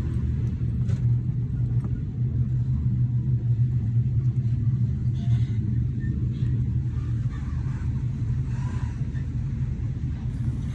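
Sleeper train running, a steady low rumble with a few faint knocks and rattles.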